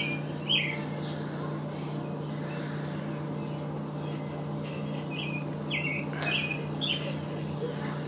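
A songbird chirping outdoors in short, falling chirps: one about half a second in, then a run of about five less than a second apart from about four seconds in, over a steady low hum.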